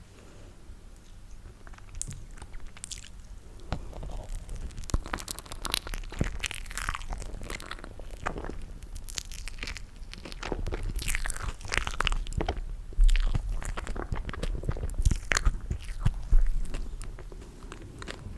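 Close-miked eating sounds of chewing sticky toasted marshmallow: dense wet smacks and sticky mouth clicks, picking up from about four seconds in, with a couple of louder low thumps in the second half.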